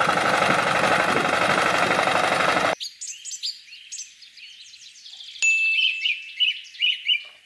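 A loud, steady whirring noise, the toy tractor's motor, cuts off abruptly under three seconds in. Small birds then chirp and tweet in quick high calls, with one held whistle partway through.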